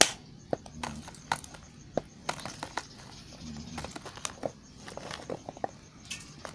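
Bar soap being cut with a knife: irregular crisp clicks and cracks, a sharp crack at the very start and smaller ones every fraction of a second after.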